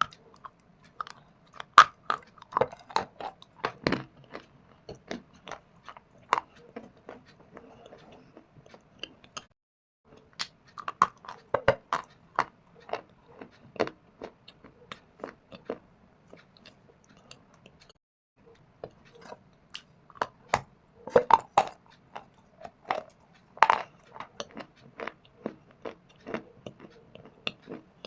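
A person biting and chewing shale stone and dry clay close to the microphone: sharp, brittle crunches in three bouts, with short pauses between them.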